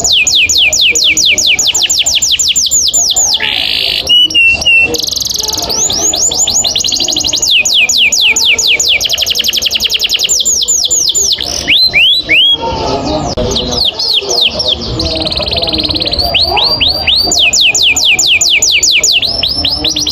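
Canary singing long rolls: long runs of fast, evenly repeated falling notes, broken by short pauses and a few different phrases.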